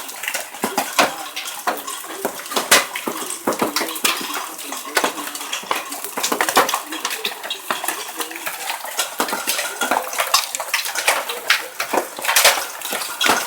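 Large hailstones pelting hard surfaces: a dense, irregular clatter of sharp impacts with the occasional louder strike.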